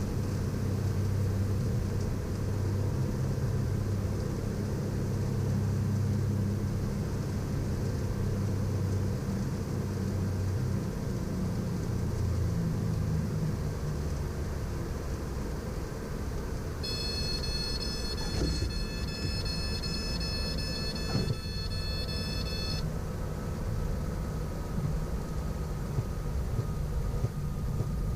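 Cockpit drone of a Piper Navajo's twin piston engines on short final, the note changing about eleven seconds in as power comes back. Near two-thirds of the way through, a high steady warning tone sounds for about six seconds, with a single thump during it.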